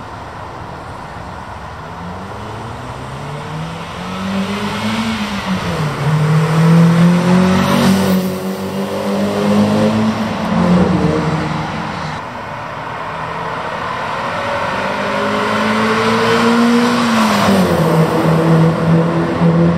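Mazda MX-5 Mk1 four-cylinder engine accelerating away, its note climbing and then dropping sharply twice as it changes up through the gears.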